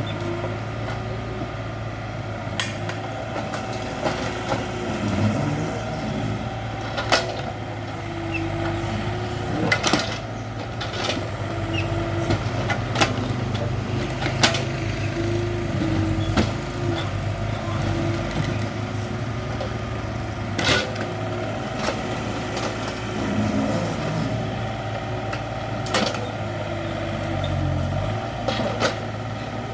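Hydraulic excavator's diesel engine running steadily under working load, with a hydraulic tone that rises and falls in pitch now and then as the machine moves. Sharp knocks and clanks come every few seconds.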